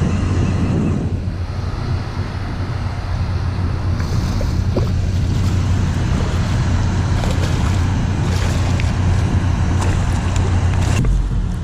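Wind buffeting the camera microphone, a loud steady low rumble with a rushing noise over it, changing about eleven seconds in.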